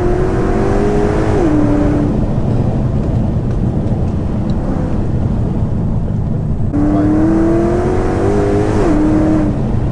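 Ford Mustang 5.0 V8 engine pulling hard under acceleration with a rising note, then a quick upshift about a second and a half in. For several seconds after that it is off the throttle with a duller sound, then it pulls hard again from about seven seconds in, with another sharp upshift near the end.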